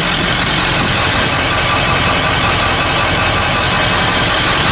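1996 Ford 7.3-litre Powerstroke V8 turbo diesel idling steadily.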